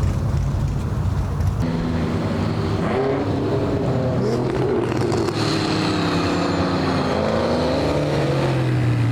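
A car's engine revving and accelerating away, its pitch climbing and dropping several times from about a second and a half in, over a steady low engine rumble.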